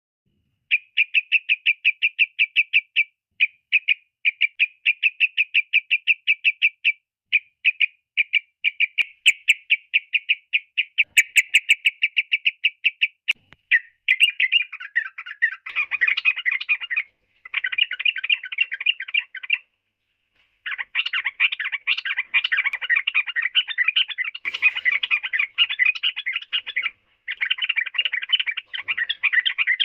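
Yellow-vented bulbul (trucukan) singing: a fast string of short repeated chirps, about eight a second, for roughly the first half. Then a busier, jumbled chattering song, with one brief pause.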